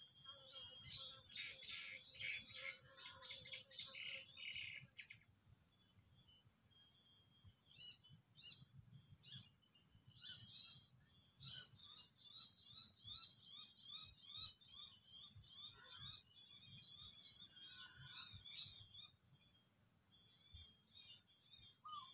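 Faint wild birdsong: a busy burst of chirping in the first few seconds, then a long run of quick, repeated high notes that lasts about eight seconds, with a thin, steady high whine underneath.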